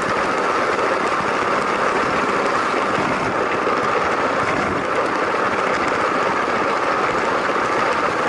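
A Lego train's small electric motor running steadily, with a fast rattle of plastic wheels on plastic track.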